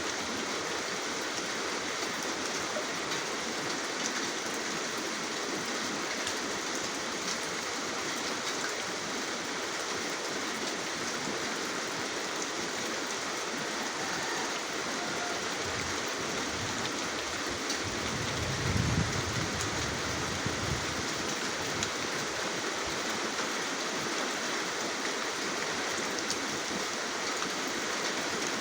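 Rain falling steadily, an even hiss of water, with a brief low rumble about two-thirds of the way through.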